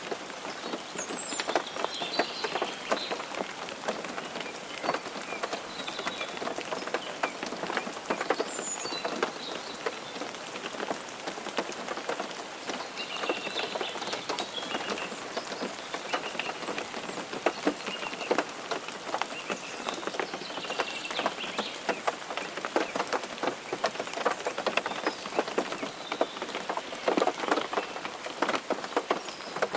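Rain and wet snow pattering on a car's roof and windshield: a steady hiss of many small, irregular drop ticks.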